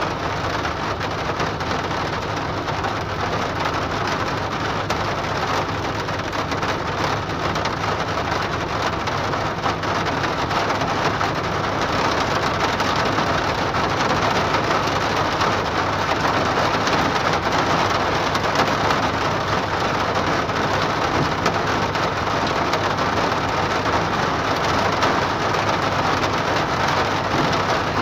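Heavy rain falling on a car's roof and windshield, heard from inside the cabin: a dense, steady hiss that grows a little louder after about ten seconds.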